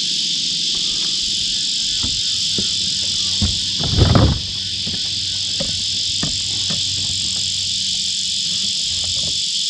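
Steady high-pitched drone of an insect chorus, with scattered light knocks and a louder rustling thump about four seconds in.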